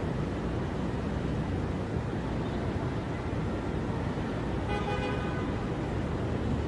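Steady city traffic rumble with a single short car horn toot, about half a second long, near the end.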